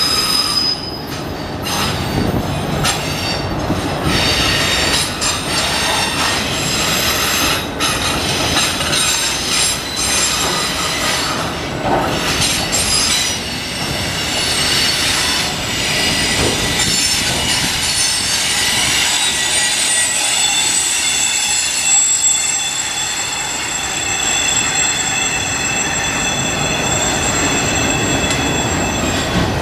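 Freight train of autorack cars rolling past: a steady rumble of the cars and wheels on the rails, with a high, ringing squeal from the steel wheels that grows stronger in the second half.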